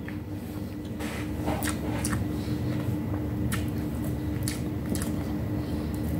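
Close-up mouth sounds of eating with the hands: wet chewing and irregular lip smacks and clicks, over a steady low hum.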